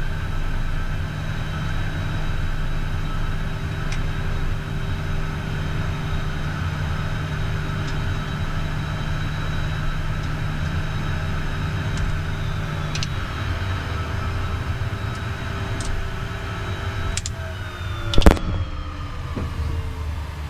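Cockpit noise of a Beechcraft Premier 1A business jet on the ground, with a steady low drone from its twin jet engines and faint steady tones above it. Near the end there is one sharp click, and after it several tones slowly fall in pitch as something winds down.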